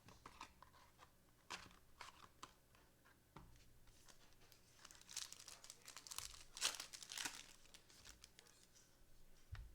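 Faint crinkling and tearing of a trading-card pack wrapper being ripped open, the loudest crinkles coming in a cluster past the middle, with a few light clicks of card handling before.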